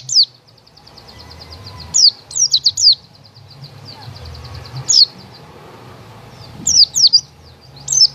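White-eye (pleci) songbird singing in bursts of quick, high, downward-sweeping chirps, about four bursts, with fast, faint ticking trills between them.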